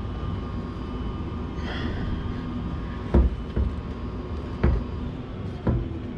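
Four dull knocks over a steady low hum, the first two close together about three seconds in, then one a second later and one near the end.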